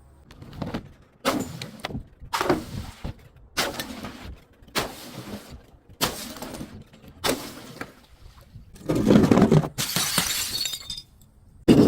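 Glass being crushed and shattering: a series of short crunches a little over a second apart, then a longer, louder stretch of crushing about nine seconds in, and another starting near the end.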